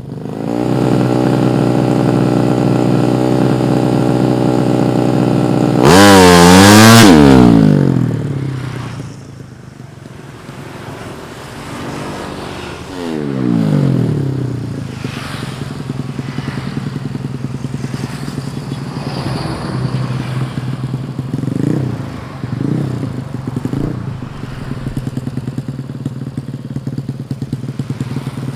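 Tuned 130cc drag-bike engine running at a steady raised idle, then revved hard up and down several times in quick succession about six seconds in, the loudest part. It drops back to idle, is revved once more with the pitch falling away shortly after, and takes a few short throttle blips later on.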